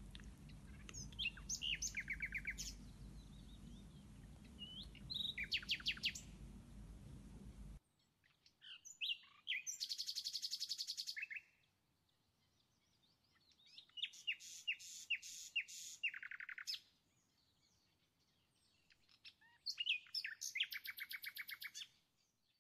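Songbird singing in about five short trilled phrases of quick repeated notes, each a second or two long with pauses between them. A low background hum cuts off suddenly about eight seconds in.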